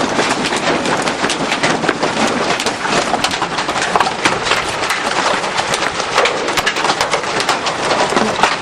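Large hailstones, bigger than marbles, pelting a roof in a dense, unbroken clatter of hits that sounds like thunder on the roof.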